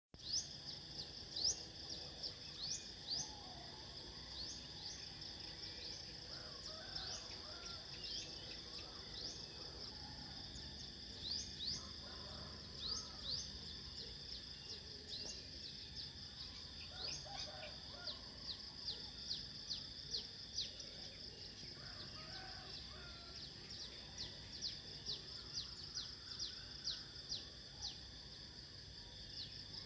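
Nature ambience: a steady high insect drone with many quick, high bird chirps over it and fainter lower bird calls.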